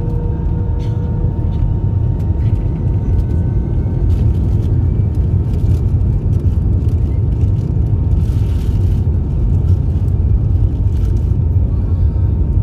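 Steady low rumble inside an Airbus A319 passenger cabin with the engines running, growing slightly louder, with a few light clicks and rattles.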